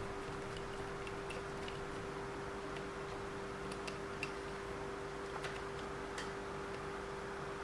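Scattered faint, irregular clicks of a small screwdriver and a tiny screw being fitted into the end of a metal RC-car centre driveshaft, over a steady hum.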